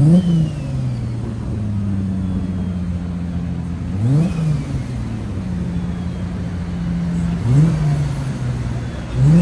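A car engine idling, revved in four quick throttle blips, each pitch rising sharply and falling back to idle, a few seconds apart.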